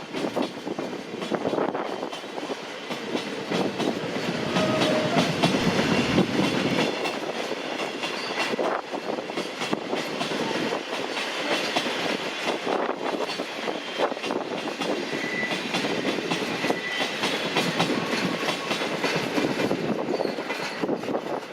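A freight train of empty cement wagons rolls past, its wheels clattering steadily over the rail joints, with a few brief faint squeals.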